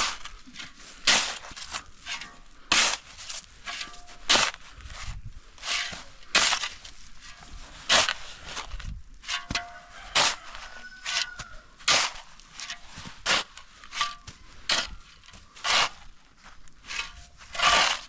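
Footsteps crunching on a murram gravel road at a steady walking pace, a step about every three-quarters of a second.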